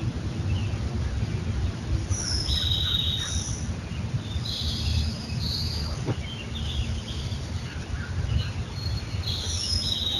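Birds calling: a scattering of short, high-pitched calls throughout, over a steady low rumble.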